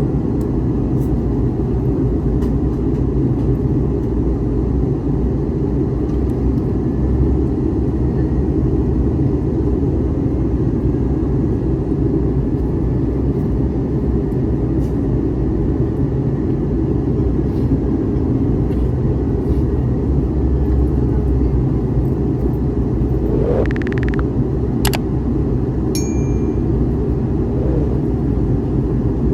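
Steady in-flight cabin noise of an Airbus A321neo: a constant rumble of engines and airflow, with a few light clicks near the end.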